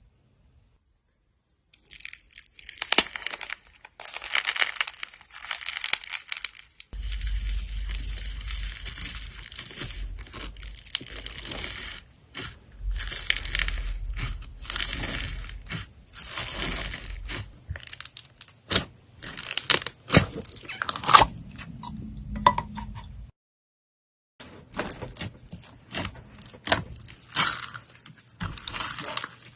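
Slime being squished, stretched and poked by hand, giving dense wet crackles, clicks and pops. It stops briefly about 23 seconds in, then starts again.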